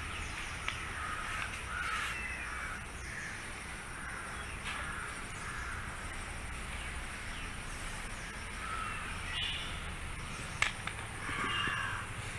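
Crows cawing repeatedly in short calls, with a few sharp clicks among them.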